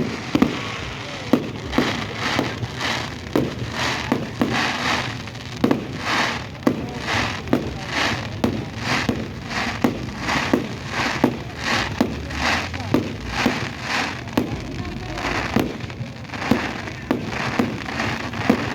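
Fireworks display going off: a steady run of sharp bangs, about two a second, with crackling in between.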